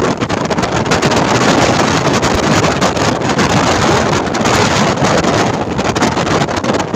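Passenger train running steadily, its wheels and carriage noise mixed with wind buffeting the microphone from an open window or door.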